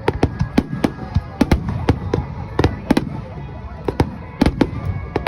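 Aerial fireworks shells bursting in quick succession: sharp bangs about three a second at uneven spacing, over a continuous low rumble of the display.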